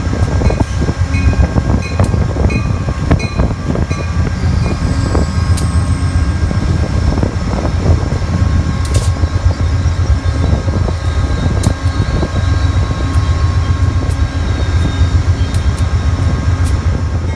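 Diesel-hauled commuter train passing close by: coaches rolling past with a steady, loud low rumble and scattered sharp clicks from the wheels and rails, while a diesel locomotive runs with a steady hum.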